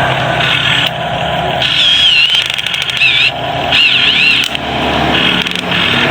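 Small electric motors of a radio-controlled excavator running under load, a high whine that changes pitch abruptly and wavers up and down several times in the middle as the machine works.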